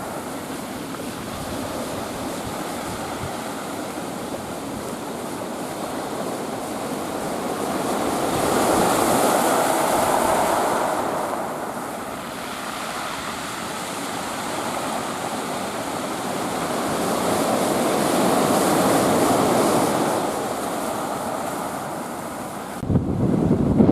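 Rough typhoon sea: surf rolling in and breaking in slow swells, louder about every nine seconds, under steady wind. Near the end, wind gusts buffet the microphone.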